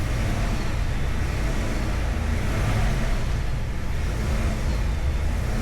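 Chevrolet Tahoe full-size SUV driving slowly, heard from inside the cabin: a steady low engine rumble with road and tyre noise, no sharp knocks or squeals.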